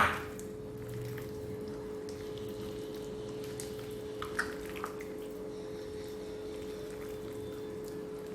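Raw chicken being mixed by hand in a thick wet marinade of egg, cornflour and flour: soft wet squishing with a few small clicks about four seconds in, over a steady hum. A sharp knock sounds right at the start.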